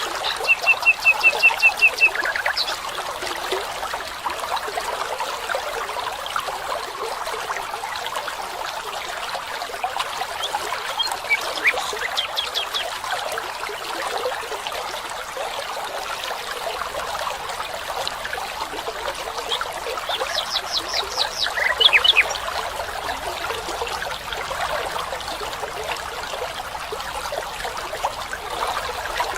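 Water trickling steadily, with birds calling over it: a quick run of short repeated notes near the start, a few scattered calls around the middle, and another rapid series of notes about two-thirds of the way through.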